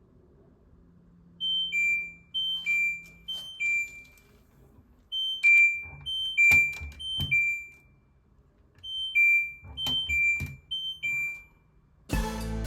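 Washing machine control panel beeping: three bursts, each of about three short two-note beeps that step down from a higher to a lower note, with several sharp clicks among them. Music starts right at the end.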